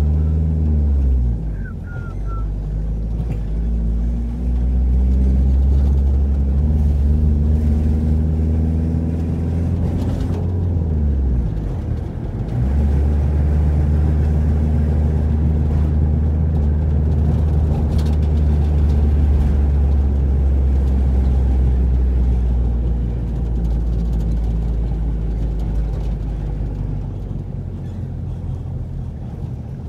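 Car engine and road noise heard from inside the cabin while driving. The engine note falls near the start, climbs and then drops sharply about eleven seconds in, as with a gear change, then runs steady.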